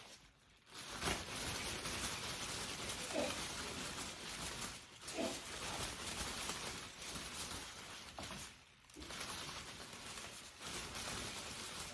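Rain falling steadily, a dense hiss of drops that starts about a second in and dips briefly near nine seconds.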